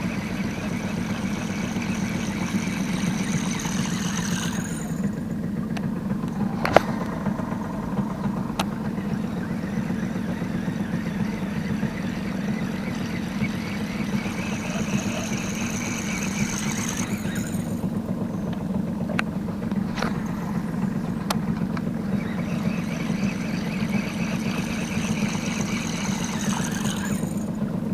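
Boat engine running steadily at low speed, with a single sharp click about seven seconds in.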